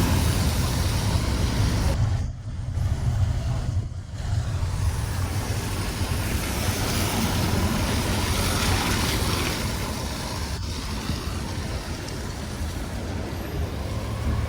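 Steady road noise heard from inside a moving taxi: a low rumble of engine and tyres with a hiss of traffic on a rain-wet road. It dips briefly twice a few seconds in.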